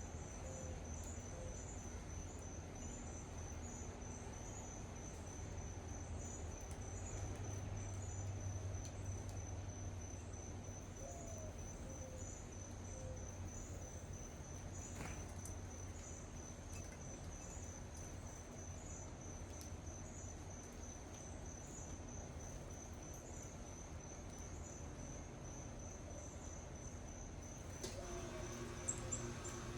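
Chorus of insects such as crickets or katydids: a steady, high-pitched, rapidly pulsing trill that never stops. About two seconds before the end, a steadier lower tone joins in.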